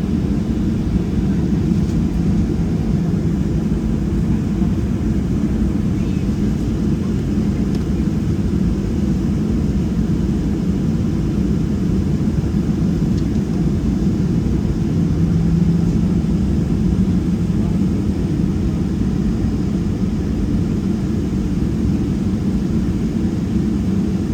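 Boeing 737-700 cabin noise while taxiing: a steady, low rumble from its CFM56-7B engines at low power, heard from inside the cabin, swelling slightly about two thirds of the way through.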